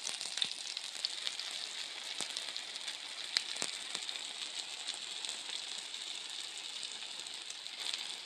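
Battered pumpkin-flower fritters shallow-frying in oil on a flat tawa griddle: a steady sizzle with scattered crackles and pops.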